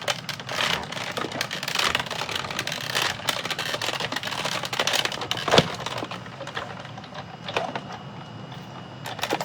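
Hand-cranked Big Shot die-cutting and embossing machine being cranked, its plates and embossing folder rolling through with a rapid clicking and rattling. A sharp knock comes about five and a half seconds in, and the clicking is quieter after about six seconds.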